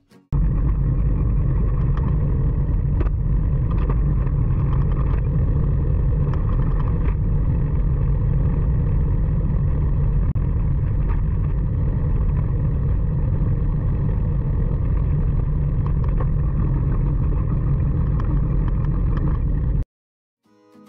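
Wind buffeting a phone microphone while riding a bicycle: a steady, loud low rumble that cuts in just after the start and cuts off abruptly about a second before the end.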